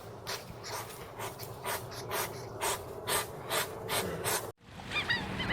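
An animal making a quick series of short, breathy calls, about two or three a second, which cut off abruptly near the end. A few faint bird chirps follow.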